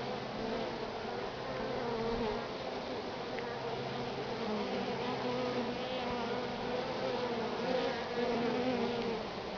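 Honey bee swarm buzzing: a dense, steady hum of many bees in flight, several pitches wavering slightly over one another.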